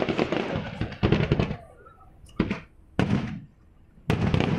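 Aerial firework shells bursting: four sudden loud bangs in a little over three seconds, each fading away within about a second.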